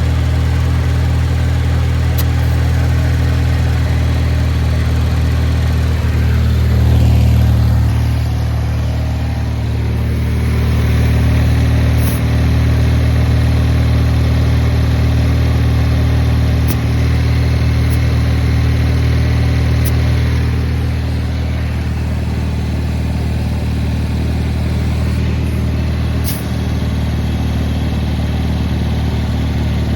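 Craftsman garden tractor's 18-horsepower Kohler twin-cylinder engine running steadily, picking up briefly about seven seconds in and again around eleven seconds.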